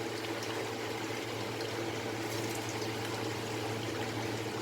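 Chicken pakoras sizzling steadily as they deep-fry in hot oil in a kadai, with a steady low hum underneath.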